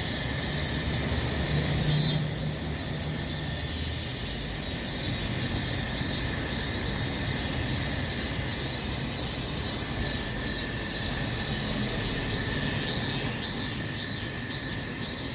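Cicadas singing in a dense, continuous chorus, with pulsing calls standing out in the second half, over a low rumble.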